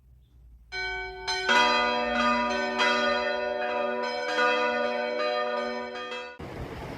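Intro jingle of bell-like chimes, a series of struck notes entering one after another and ringing over each other. A short rush of noise cuts in near the end.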